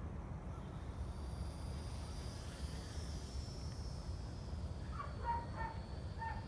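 Faint high whine of a small electric-powered RC airplane (Eachine P-51D Mini Mustang) flying past, rising in pitch to a peak about halfway through and then falling away. Under it runs a steady low rumble, the loudest sound. A few short chirps come near the end.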